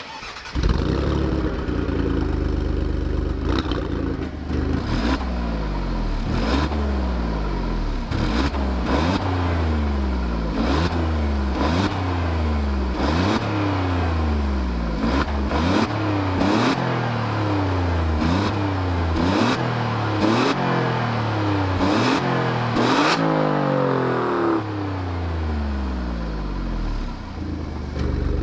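Alfa Romeo Giulia Quadrifoglio's 2.9-litre twin-turbo V6 starting with a loud flare about half a second in. It is then revved hard over and over, about one blip every second and a half, each rising sharply and dropping back, with sharp exhaust cracks at the top of many revs. Near the end it settles to an idle.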